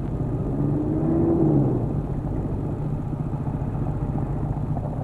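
Car engine idling with a steady low hum, and a tone that rises and then falls back about a second in.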